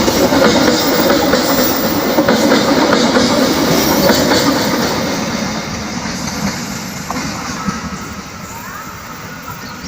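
A train running past, its wheels knocking rapidly over the rails, the noise fading steadily from about halfway as it moves away.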